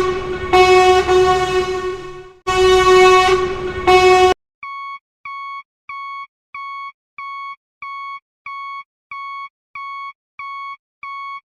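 A horn blaring in long blasts, the last one cutting off about four seconds in. It is followed by a steady electronic beep repeating about one and a half times a second.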